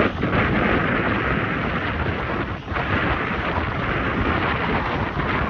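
Strong, gusty wind blowing over the microphone: a loud, steady rush with a rumbling low end.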